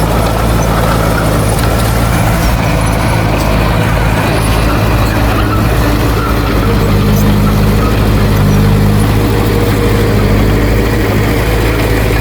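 Heavy earthmoving machine's diesel engine running steadily, a little louder around eight seconds in.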